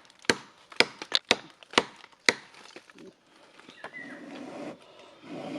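A tool chopping into wood: about six sharp strikes roughly half a second apart, then they stop and softer rustling and scraping follow.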